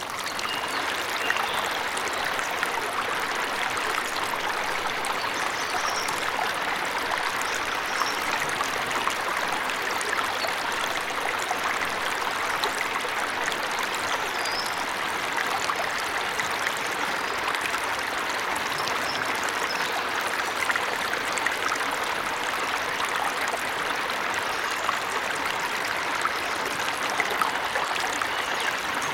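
Forest waterfall, its water rushing and splashing steadily, with a few faint high bird chirps now and then.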